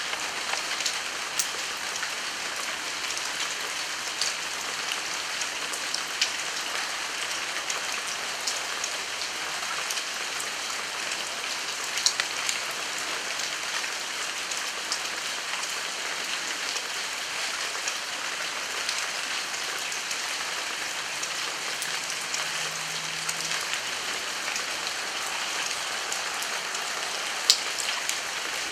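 Heavy rain falling steadily as an even hiss, with scattered sharp ticks of single drops striking close by. Two louder drop hits come about twelve seconds in and near the end.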